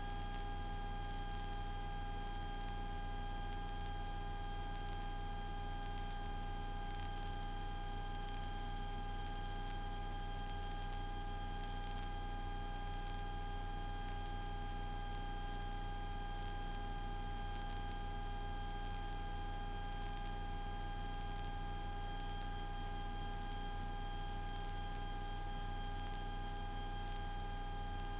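Steady cabin drone of a Cessna 172S Skyhawk in the climb, heard through the intercom feed: a low, even engine rumble with several thin, steady high whining tones over it.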